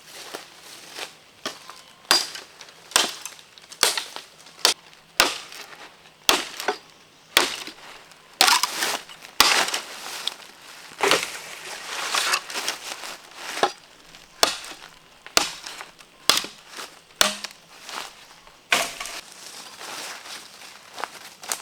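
A run of sharp crunching snaps, about one a second at an uneven pace, like something crisp being broken or chopped by hand.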